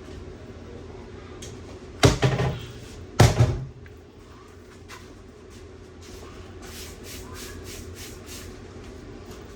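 Two loud bangs about a second apart, like a cabinet or door being shut, over a steady low hum, followed by a few faint light clicks.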